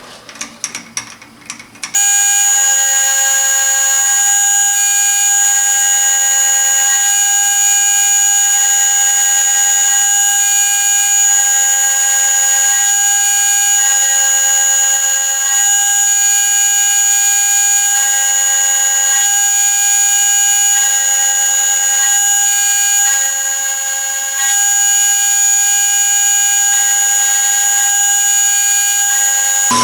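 A few knocks, then about two seconds in a machine tool starts up and runs with a steady high-pitched whine. A second, lower tone cuts in and out every second or two.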